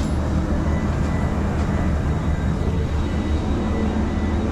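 Steady low drone of an Airbus A321neo's cabin air conditioning with the aircraft parked at the gate before engine start, with a faint high tone running through it.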